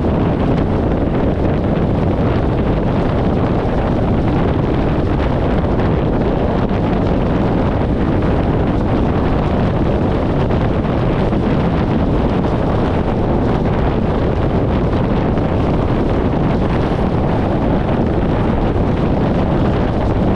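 Steady wind rush on the microphone of a camera mounted outside a 1994 VW Gol moving at highway speed, mixed with the car's steady road and running noise. It stays even throughout, with no gear changes or passing events.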